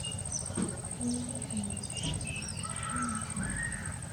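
Rural outdoor ambience: small birds chirping in short scattered calls over a steady low rumble, with a few brief faint low calls or distant voices and a thin steady high whine.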